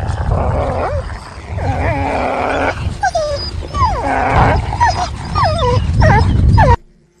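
Wolves growling and snarling with many short whining yelps that bend up and down in pitch, as in a squabble; the sound cuts off suddenly near the end.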